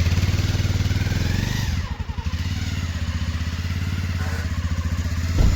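Motorcycle engine running with a rapid, even firing beat, easing off a little about two seconds in; a short thump near the end.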